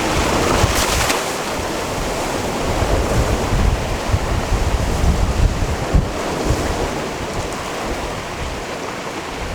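Sea waves washing onto a rocky shore, with a brighter splash of a breaking wave about a second in. Wind buffets the microphone as a gusty low rumble.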